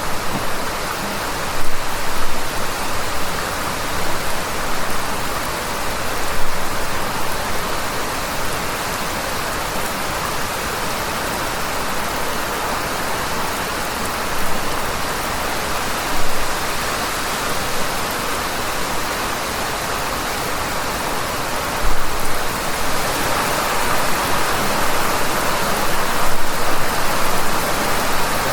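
Heavy rain falling steadily, a dense even hiss, with a few brief louder swells and splashes here and there.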